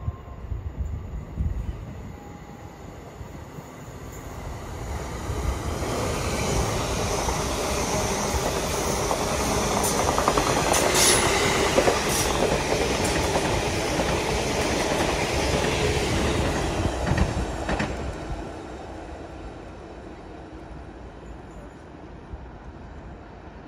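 Greater Anglia electric multiple unit running through the station at speed without stopping. The rumble of wheels on rail builds over a few seconds, stays loud for about twelve seconds with a few sharp clicks in the middle, then fades away.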